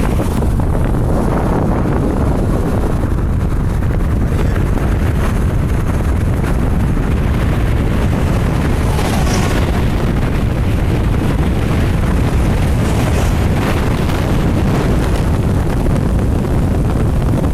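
Steady low wind rumble buffeting the microphone over the running noise of a moving car, with brief hissing surges about nine and thirteen seconds in.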